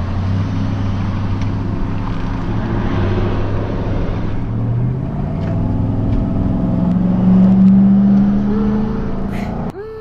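Vehicle engine pulling away from a stop and accelerating, its pitch rising twice over a steady rush of road and wind noise. It cuts off abruptly near the end.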